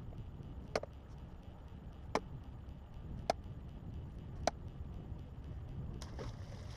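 Wooden club striking an Asian carp to kill it: four sharp knocks about a second apart, then a splash near the end as the dead fish is thrown overboard.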